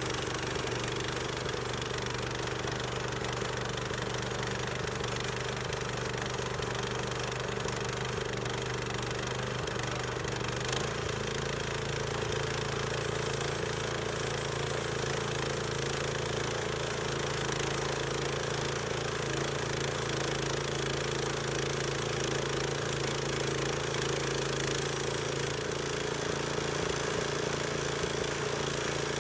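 Engine of a small band sawmill running steadily, with its pitch stepping slightly about ten seconds in.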